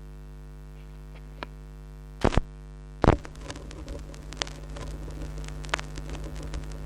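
Steady mains hum, then two loud knocks a little after two and three seconds in, followed by crackle and scattered clicks: a turntable stylus set down on a vinyl record and riding the lead-in groove.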